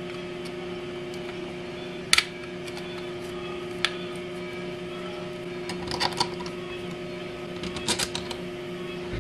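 3D-printed plastic parts clicking and knocking against each other as they are handled and fitted together, with a loud sharp click about two seconds in and small clusters of clicks later, over a steady hum.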